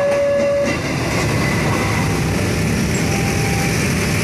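Passenger train carriages rolling past on the rails: a steady rumble and clatter of wheels on track. A warning signal alternating between two notes stops about a second in.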